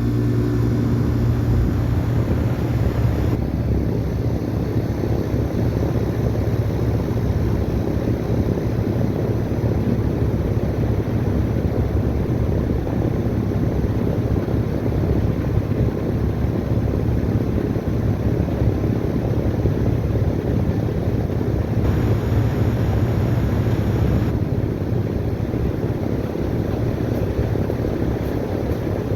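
A 2005 Ruud 3.5-ton, 12 SEER straight-cool condensing unit running steadily just after start-up. Its Copeland scroll compressor gives a strong low hum under the even rush of the condenser fan.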